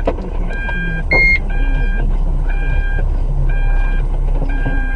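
Electronic alarm beeping about once a second in a steady pitched tone, with one louder, higher-pitched beep about a second in, over a low rumble. A single knock right at the start.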